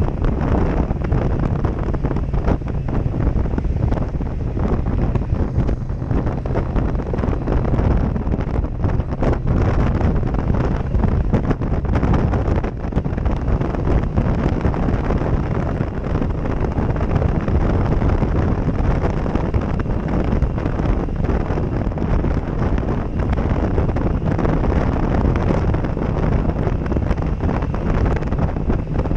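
Steady, heavy wind noise buffeting the microphone of a helmet-mounted GoPro Session on a moving motorcycle, with the bike's engine running faintly underneath.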